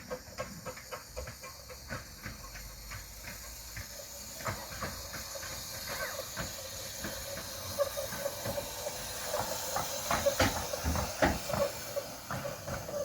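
Miniature steam train on the 15-inch gauge line: steam hissing and wheels clicking over rail joints, about three clicks a second at first, growing louder toward the end with a few sharper knocks.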